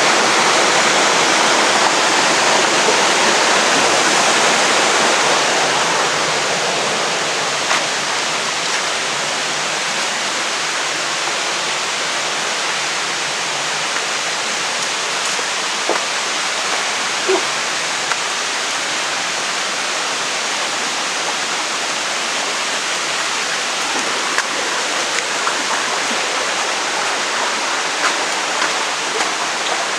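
Waterfall: a steady rush of falling water, easing slightly about six seconds in, with a few faint clicks and knocks over it.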